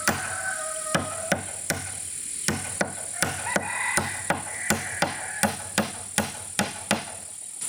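Repeated blows of a hand tool striking wood, a sharp knock about two to three times a second, as timber is chopped or hammered. Background music plays under the strikes.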